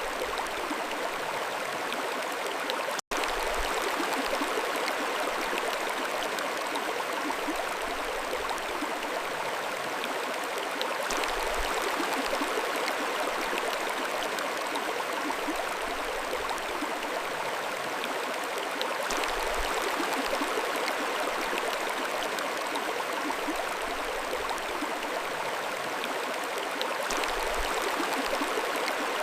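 Mountain stream flowing steadily over rocks, a continuous even rushing and gurgling of water. The sound drops out for a split second about three seconds in.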